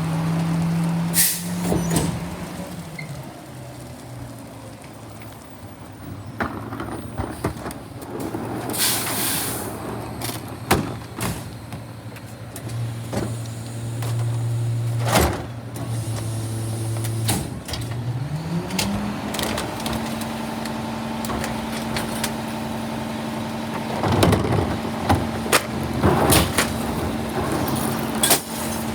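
Garbage truck engine idling low, then speeding up about two-thirds through and holding a higher steady note. Metal clanks and bangs are scattered throughout, thickest near the end, with a short burst of air-brake hiss about a third in.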